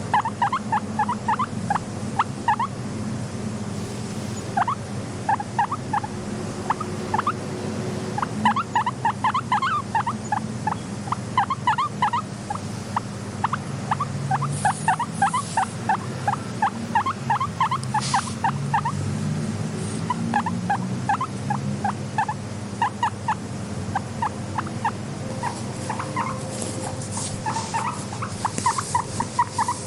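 Guinea pig vocalizing in quick runs of short squeaks, several a second with short pauses between runs, over a steady low hum.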